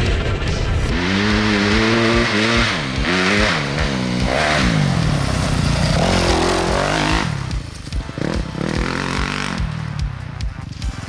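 Dirt bike engine revving up and down as it is ridden, its pitch climbing and dropping several times, with rushing noise over it. After about seven seconds the engine fades and leaves a rougher rustle and clicks.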